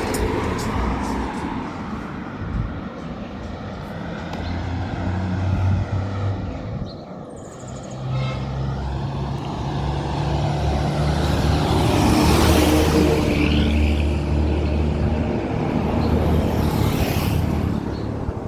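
Motor vehicles on a road near the walker: a steady engine hum throughout, with vehicles passing close by twice in the second half, the louder pass in the middle.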